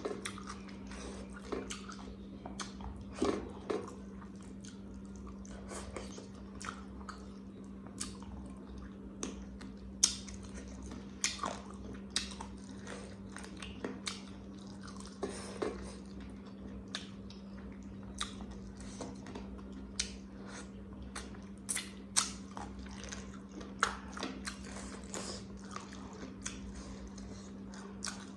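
Close-miked chewing and biting of a curry meal, a string of irregular wet clicks and crunches, over a steady low hum.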